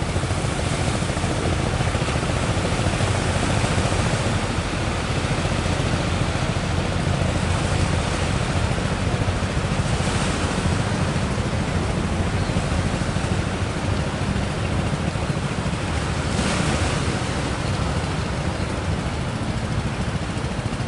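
Ocean surf breaking steadily, with wind buffeting the microphone as a heavy low rumble.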